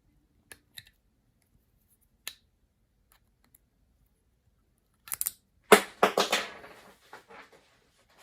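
A few light clicks, then a short clatter of hard objects knocking together and being handled about five seconds in, fading out over the next two seconds.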